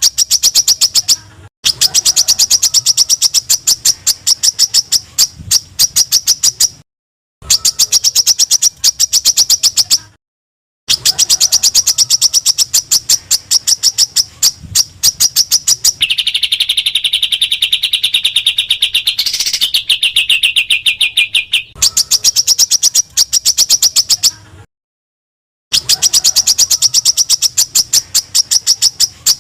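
Small songbirds' rapid-fire 'tembakan' calls edited into masteran song-training material: fast runs of sharp, high chips in bursts, cut apart by abrupt silences. About sixteen seconds in, a lower buzzing trill runs for about five seconds, with a sharp rising note in the middle.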